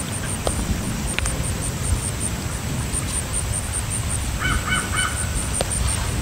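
A bird calling a quick run of about five short harsh notes about four and a half seconds in, over a steady low outdoor rumble.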